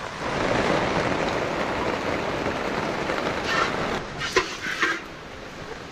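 Heavy rain falling, a dense steady hiss that eases off about four seconds in, with a few short, sharp sounds around then.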